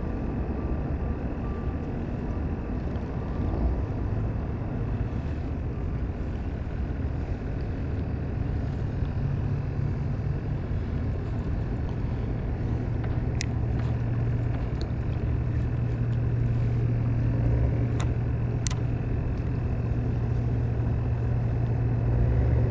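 A boat engine running steadily with a low hum that grows stronger about halfway through, over wind and water noise, with a few sharp clicks in the middle.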